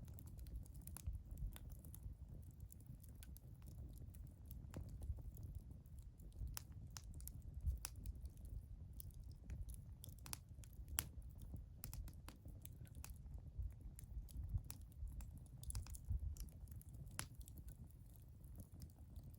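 Wood fire burning, with irregular crackles and sharp pops over a low steady rumble.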